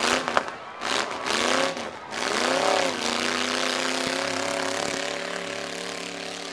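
Demolition derby truck engines revving up and down, then settling into a steady run.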